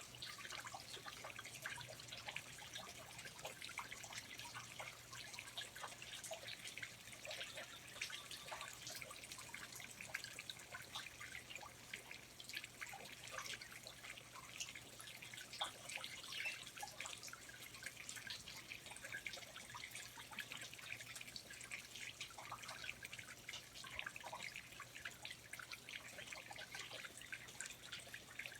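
Water dripping: many small drops falling irregularly, with no steady rhythm, as from wet rainforest foliage.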